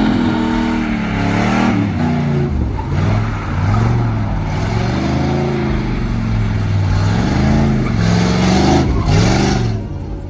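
Vehicle engine revving again and again, its pitch climbing and dropping several times, loud throughout.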